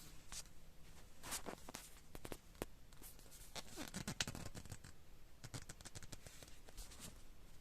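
Faint handling noises from the dismantled wood-burning stove being examined: scattered light clicks, scrapes and rustles, busiest from about three and a half seconds in.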